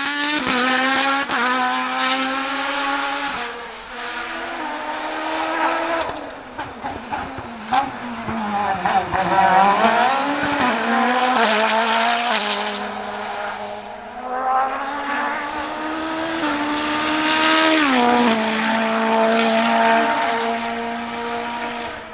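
Race car engine at full throttle on a hillclimb, pitch climbing and then dropping sharply at gear changes, once a few seconds in and again near the end. In the middle the revs waver and fall as the car slows for a corner, then climb again. The sound fades at the very end.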